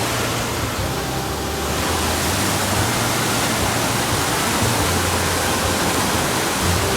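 Stream water rushing in a steady, even roar of noise.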